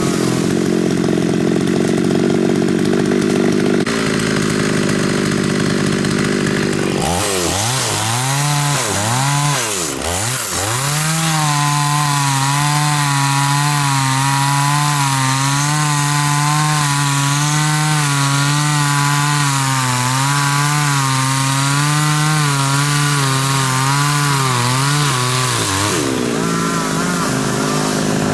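Two-stroke chainsaw sawing through a large khaya (xà cừ) tree. The engine runs steadily at first, is revved up and down several times about seven seconds in, then holds high revs with a slight wavering through a long cut before dropping back near the end.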